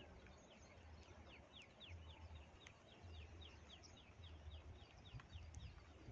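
Faint bird calls: a long run of short, falling high notes repeating about four times a second, over a low rumble.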